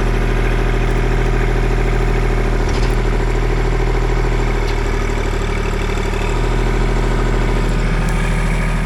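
Kubota L2501 compact tractor's three-cylinder diesel engine running steadily at a fairly constant speed, with a slight change in its low note midway through.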